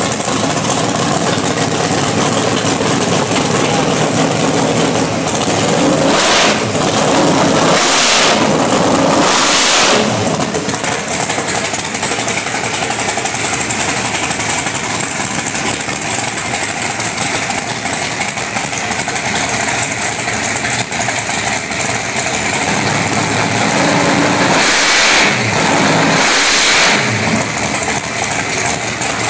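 Nesbitt 565 cubic-inch big-block V8 drag-race engine running at idle, with the throttle blipped three times in quick succession about six to ten seconds in and twice more near the end.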